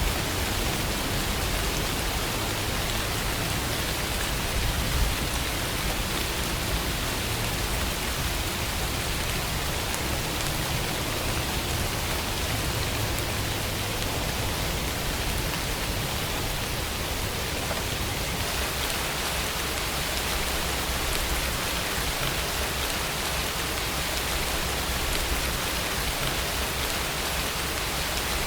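Steady rainfall: an even hiss of rain with raindrops falling on a surface.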